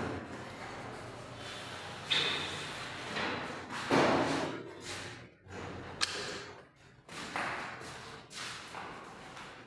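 Broom sweeping a floor in several irregular swishing strokes, with a loud thud about four seconds in.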